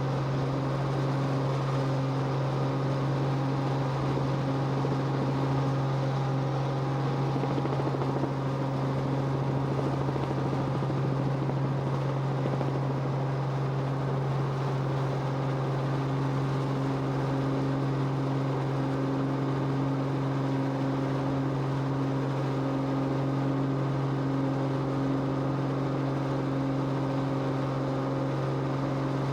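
Steady engine drone of an aircraft heard on board: a constant low hum with a few fixed higher tones over a noisy wash, unchanging throughout.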